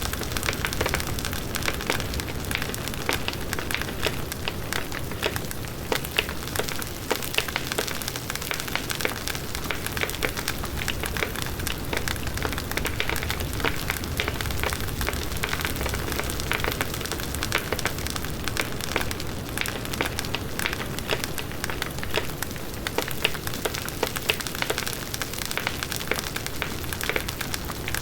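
Large wood bonfire burning steadily: many sharp pops and crackles of burning wood over a continuous rushing of the flames.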